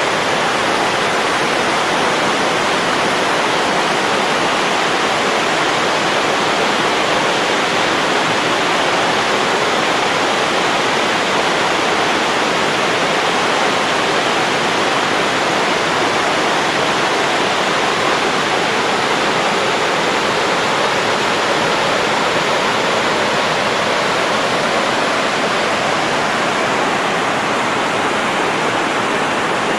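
Buttermilk Falls, a cascade on the Raquette River, rushing steadily: an even, unbroken wash of falling water.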